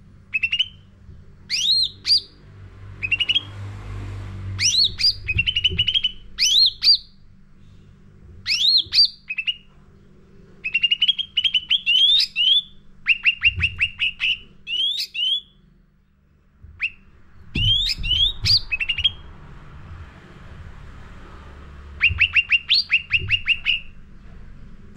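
Cucak ranting songbird singing, in short repeated phrases of quick upward-sweeping whistled notes and fast chattering runs of short notes, with brief pauses between phrases. A faint low hum runs underneath.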